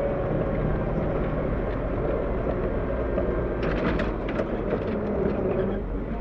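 CAT 908 compact wheel loader's diesel engine running steadily with a whine that dips slightly in pitch. A cluster of sharp clanks and scrapes comes from about three and a half to five seconds in.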